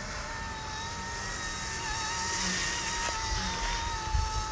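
Small RC helicopter's electric motor and rotors giving a steady high whine in flight. Wind buffets the microphone, more strongly near the end.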